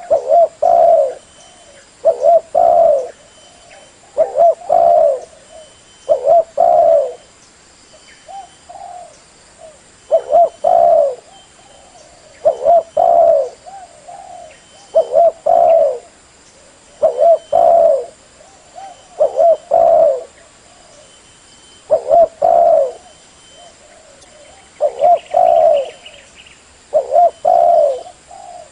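Spotted dove cooing over and over, a loud phrase of a few rolling coos about every two seconds: a tekukur lure (pikat) call for drawing in wild doves.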